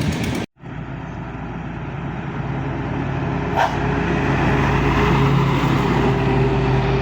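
Truck engine running steadily and growing louder over several seconds. A short sharp sound comes about halfway through.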